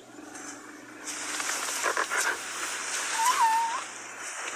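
Noises of a newborn elephant calf: a rough, rustling noise with a short wavering squeak about three seconds in.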